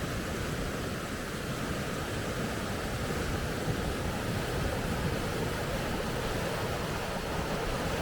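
River rapids: a steady, even rush of moving water.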